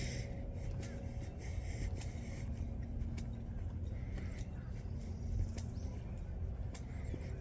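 Footsteps on a trail, short clicks about twice a second, over a steady low rumble of distant road traffic.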